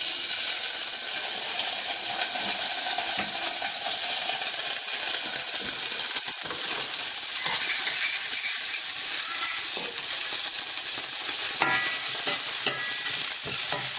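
Diced bacon and diced smoked tofu frying in vegetable oil in two stainless steel saucepans: a steady sizzle that jumps up as the tofu drops into the hot oil at the start. Later a spatula stirs the bacon, with a few clicks against the pan near the end.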